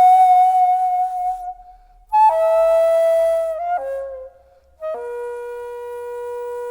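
Daegeum, the Korean bamboo transverse flute, playing a slow solo melody: long held notes with a breathy edge and a light waver, broken by two short pauses for breath, stepping down in pitch to a long steady low note near the end.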